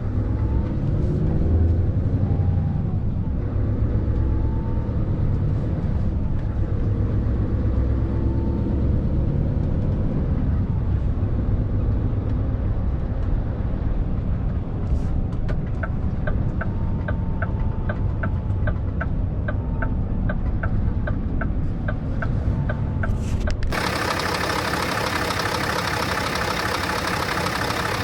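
Scania R650's V8 diesel engine running, its pitch rising and falling a few times. In the latter part a steady run of short high ticks, about two or three a second, joins it. A few seconds before the end the engine sound cuts off abruptly and gives way to a brighter, denser sound.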